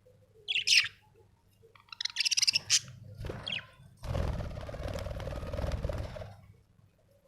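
Budgerigar chirping: a short sharp chirp about half a second in, then a quick buzzy run of chirps around two to three seconds in. About two seconds of rustling noise follows.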